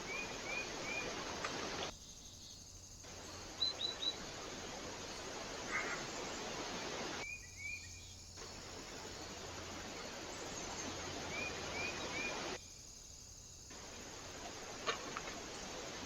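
Small birds chirping in quick groups of three short notes, several times, over a steady hiss that drops out briefly three times. A couple of faint clicks come near the end.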